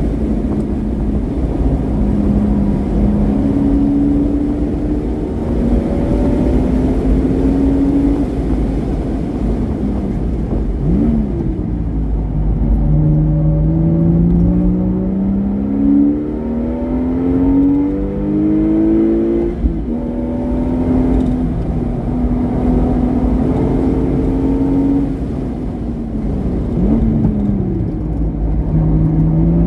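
Porsche Boxster S engine through a modified exhaust, driven hard on track. The engine note climbs steadily under acceleration and falls away at upshifts, with quick rev blips on downshifts about eleven seconds in and again near the end, over a steady low rumble.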